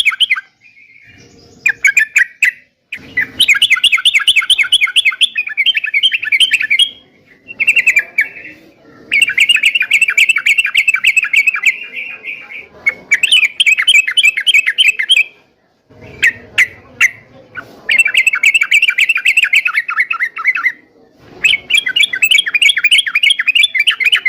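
Yellow-vented bulbul (trucuk) singing in loud bouts of rapid chattering notes, one to three seconds each with short pauses, and a few sharp clicks between bouts.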